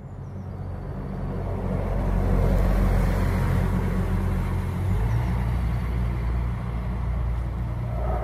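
ICE high-speed train approaching on the main line: a low rumble that grows louder over the first couple of seconds, then holds steady as the train nears.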